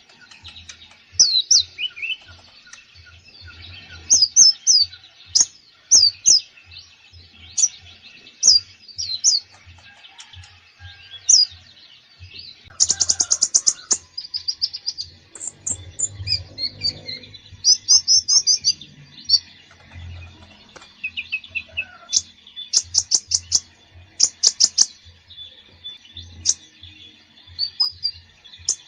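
Kolibri ninja sunbird singing busily: rapid runs of sharp, high chirps and short trills with brief pauses, a full song packed with phrases picked up from other birds.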